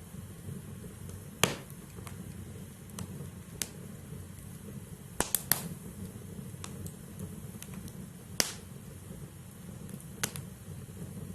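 Logs burning in a fireplace: a steady low rumble of flame with sharp crackles and pops from the firewood at irregular intervals, the loudest about a second and a half in and again past eight seconds, and a quick run of three pops around five seconds in.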